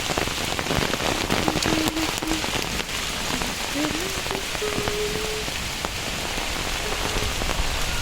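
Heavy rain falling steadily, with dense drops pattering on nearby surfaces. A faint wavering tone comes and goes through the middle and again near the end.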